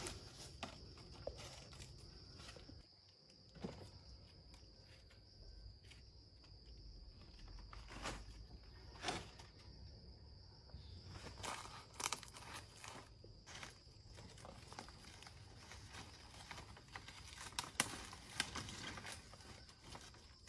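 Crickets chirring steadily in a high, even drone, with scattered short knocks and rustles on top, loudest near the end.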